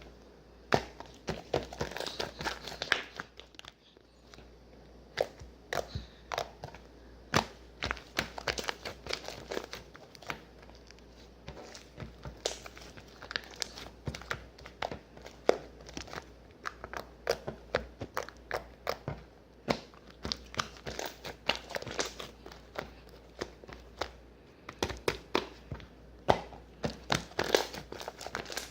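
Irregular crinkling and crackling, with many sharp clicks, as of something being crumpled or handled.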